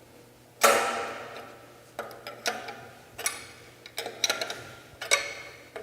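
Wrench clinking on the steel nuts of a chop saw's motor tensioner screws as they are turned: about seven irregular sharp metallic clicks with a short ring, the first and loudest about half a second in.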